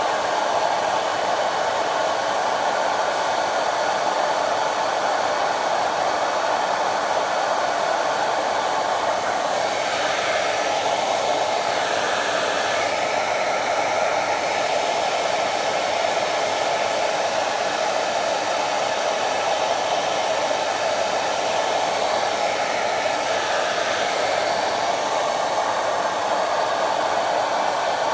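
Vidal Sassoon Hot Tools hair dryer running steadily with a continuous rush of air from its fan, its tone wavering faintly twice, about ten and twenty-three seconds in.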